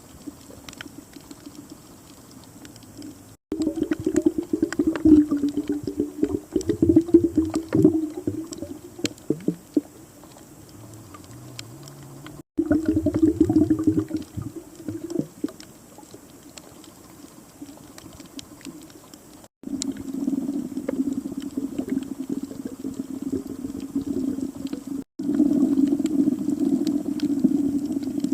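Underwater bubbling from a diver's exhaled air, heard through an underwater camera. Loud stretches of bubbling lasting a few seconds alternate with quieter stretches.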